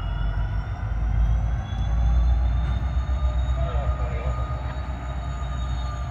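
Freight train in a rail yard: a steady low rumble, loudest a second or two in, with thin high-pitched squeals of steel wheels on rail that slowly rise and fall.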